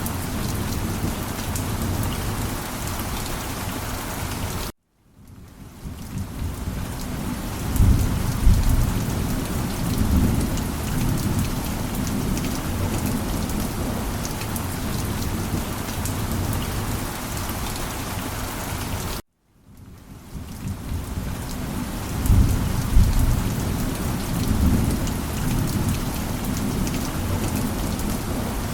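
Steady heavy rain with low rumbles of thunder swelling about 8 and 22 seconds in. Twice, at about 5 and 19 seconds, the sound cuts out to silence and then builds back up.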